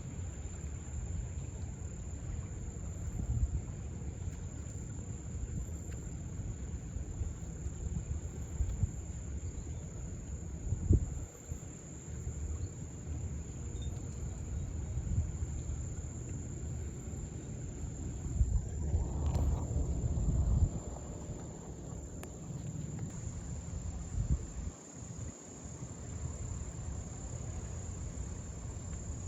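Insects singing one continuous high-pitched trill, over low rumbling noise with a single knock about eleven seconds in and a louder swell of rustling noise around two-thirds of the way through.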